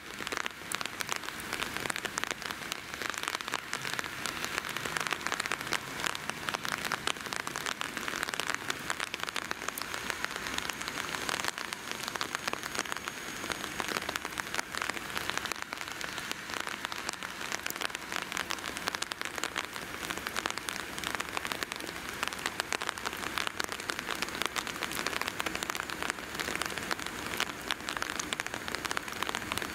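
Steady rain: an even hiss thick with close, sharp drop ticks.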